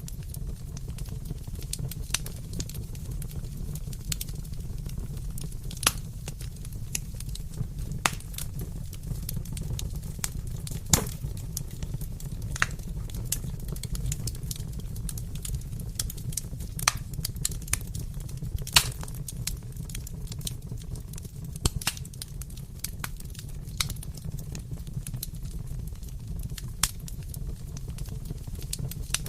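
Wood fire burning in a fireplace: a steady low rumble of the flames with irregular crackles and sharp pops of burning logs.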